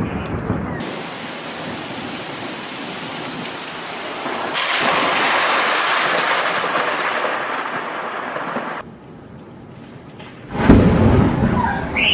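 Heavy rain hissing steadily, growing louder about halfway through. Then it stops abruptly, and near the end a close lightning strike sets off a sudden loud thunderclap with a deep rumble.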